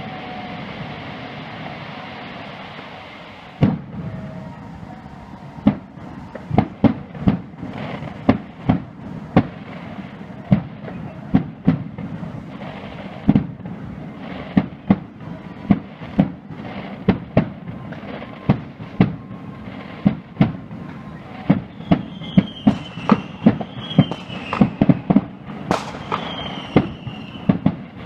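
Fireworks display: a rapid, irregular barrage of sharp bangs from exploding shells, following a hissing rush in the first few seconds. Short falling whistles join the bangs in the last several seconds.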